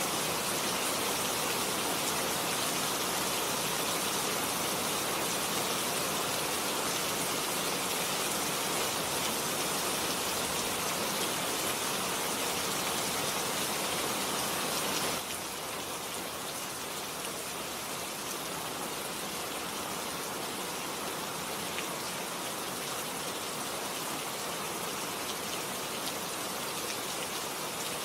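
Steady heavy rain falling, a dense even hiss; about halfway through it drops suddenly to a slightly softer level and carries on.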